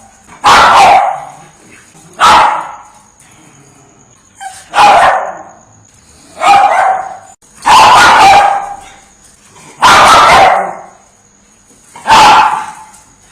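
Chihuahua barking: seven sharp, loud barks spaced about two seconds apart, a couple of them drawn out a little longer.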